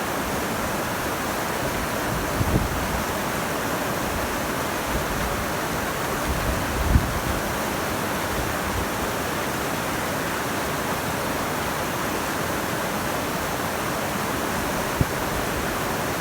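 Rockfall from a glacier ice wall: boulders and ice blocks landing as dull low thuds, the loudest about seven seconds in, a smaller one near the start and a short one near the end, over a steady rushing noise.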